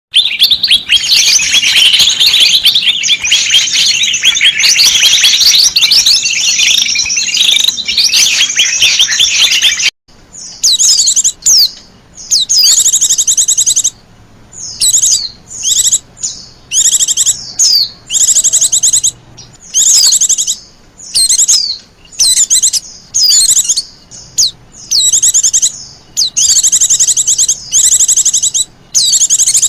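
White-eyes (pleci) calling in agitated, noisy 'ribut' fashion, the kind of calling used as a lure for wild white-eyes. Dense, continuous high chattering breaks off abruptly about ten seconds in. After that come short, rapid high trills repeated every second or two with brief gaps.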